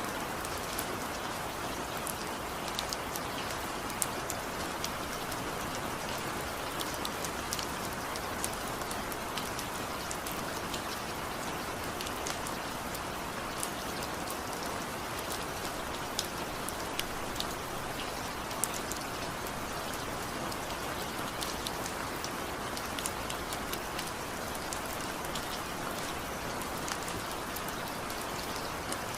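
Steady rain with individual drops pattering, a constant hiss with many small scattered drop ticks.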